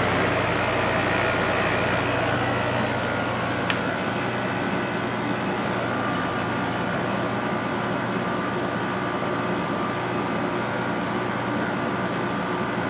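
An 8000 BTU LG window air conditioner running on cool, its LG compressor and fan making a steady hum with an even rush of air. A brief hiss about three seconds in and a small tick shortly after.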